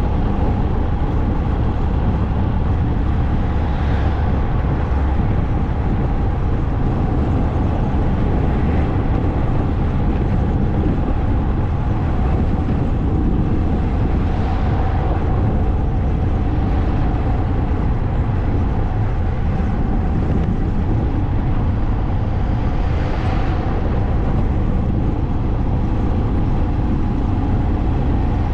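Motorcycle riding along at a steady speed: continuous engine rumble mixed with wind noise, with three brief swells in the hiss.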